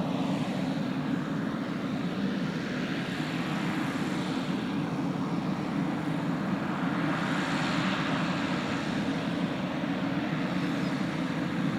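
Pilatus PC-12's single turboprop engine running steadily at low power as it lines up on the runway, a constant low drone under a hissing turbine whine that swells and fades slightly.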